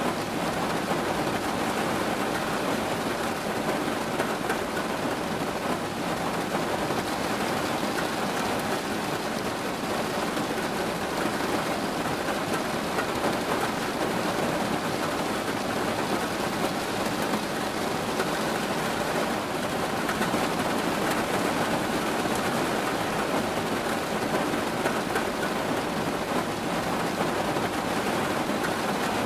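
Steady rain falling, an even, unbroken hiss that holds at the same level throughout.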